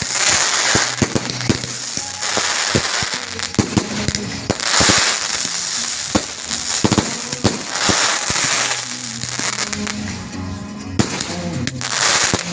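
Fireworks going off in quick succession: many sharp bangs and several crackling bursts, with music playing underneath.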